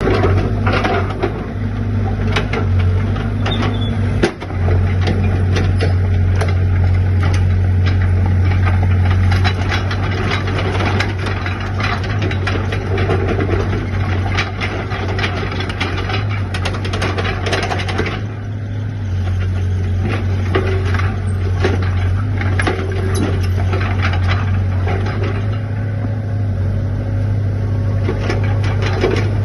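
SANY SY60C mini crawler excavator's diesel engine running steadily, with frequent clanks and rattles over the engine note.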